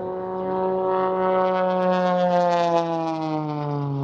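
Aircraft flying low past the crowd: a strong engine and propeller tone that swells, then drops steadily in pitch over the last couple of seconds as it passes and moves away.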